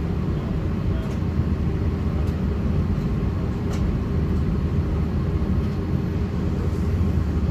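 Steady low rumble inside the cabin of an Airbus A330-900neo with its Rolls-Royce Trent 7000 engines running, with a few faint clicks from the cabin.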